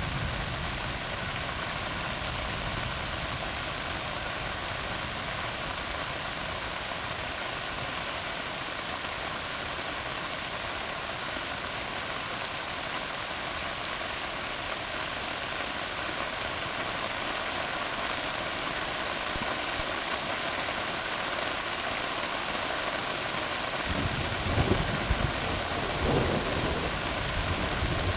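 Steady rain falling on a tar road, an even hiss of drops on the wet surface. A low rumble comes in near the end.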